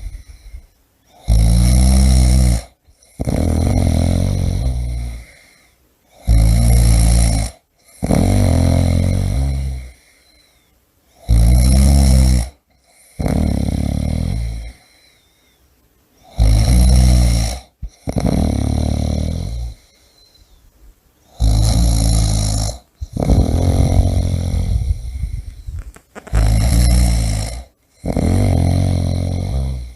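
A person snoring heavily in a regular rhythm, about six breaths: each is a short rattling snore on the breath in, followed by a longer rasping breath out, roughly every five seconds.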